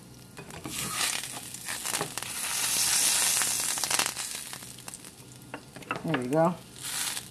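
Monkey head mushroom (Hericium erinaceus) steak sizzling in oil in a frying pan. The sizzle swells loud about a second in as the steak is pressed down to squeeze its water out, then eases off, with a few light knocks against the pan.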